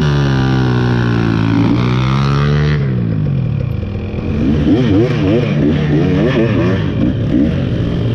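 2023 KTM 300 XC's single-cylinder two-stroke engine held at high revs for about three seconds, dropping off, then revving up and down in quick blips as the dirt bike is ridden over trail terrain.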